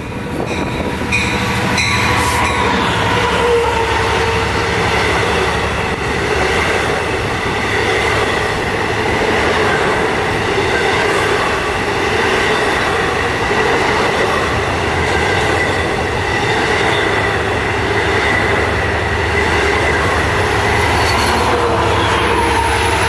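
A Long Island Rail Road diesel push-pull passenger train passing, with DM30AC locomotive 521 trailing. It makes a steady loud run of wheel-on-rail noise with high ringing tones. Under that is a diesel engine drone, strongest in the first few seconds and again over the last third.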